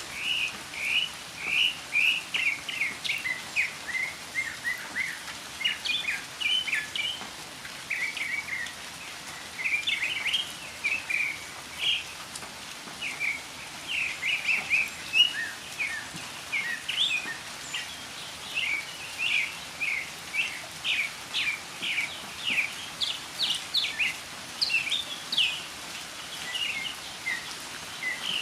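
Northern mockingbird singing a long, continuous run of short, varied phrases, with similar notes often repeated several times in a row, over a steady hiss of falling rain.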